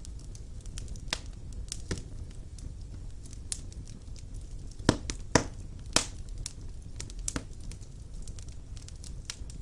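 Fire burning in a fireplace, crackling with scattered sharp pops over a low steady rumble of the flames; the three loudest pops come close together about five to six seconds in.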